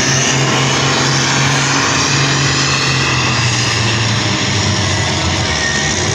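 A pulling vehicle's engine running hard under load as it drags the weight sled, a loud steady drone whose pitch sags a little after about four seconds.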